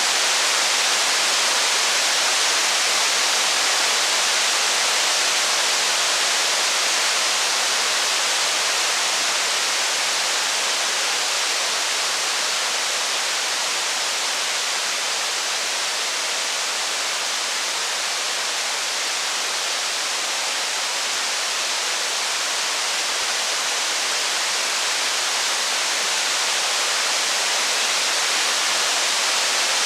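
Heavy rain falling steadily: an even hiss with no distinct drops, crackles or thunder, easing very slightly midway.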